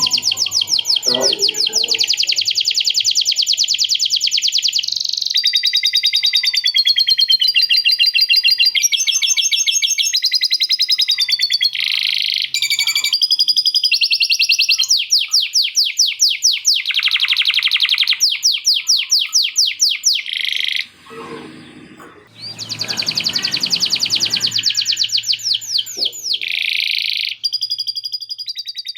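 Male canary singing a long, loud song of rapid trills and rolls, switching to a new phrase every second or two, its repertoire filled with phrases copied from lovebird chatter. The song breaks off briefly about three quarters of the way through, then resumes.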